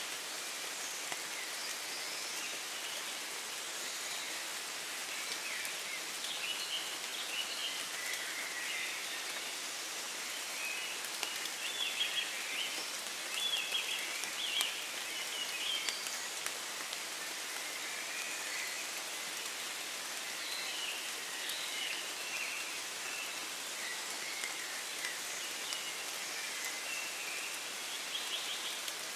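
Steady rain falling in a forest, pattering on leaves, with birds of a dawn chorus chirping and singing in short phrases throughout.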